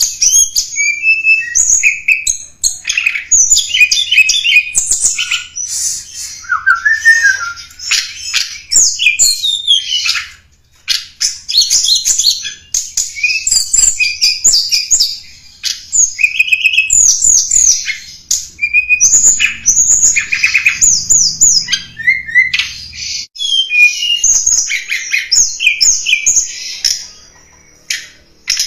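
Tledekan gunung singing a fast, varied song of high chirps and trills in phrases of several seconds, with short pauses between them. It is a lure call recording, played to attract wild tledekan or to tutor caged birds.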